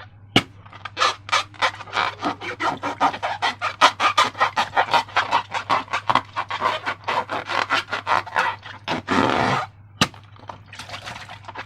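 Slime being worked by hand: a rapid run of sticky squelches, about four or five a second, then a longer squelch and a sharp click near the end.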